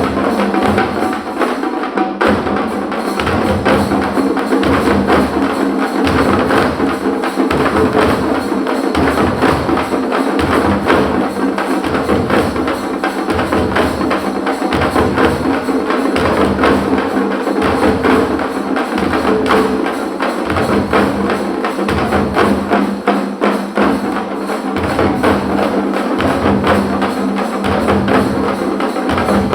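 An ensemble of parai frame drums playing a fast, driving rhythm, dense sharp strikes over a steady low pulse without a break.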